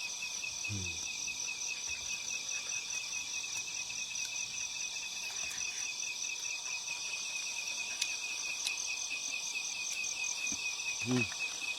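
A chorus of insects trilling steadily in fast, even pulses at a high pitch. A short, low human voice sound comes about a second in and again near the end.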